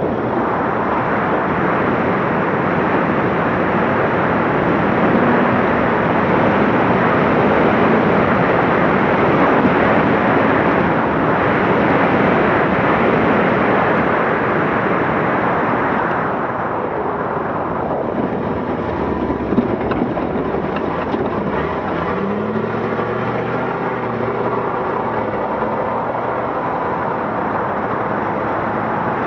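Scania Dakar rally truck driving at speed: a loud, steady rush of engine and road noise that drops about halfway through. After that the diesel engine's note comes through more clearly, with a short rise in revs later on.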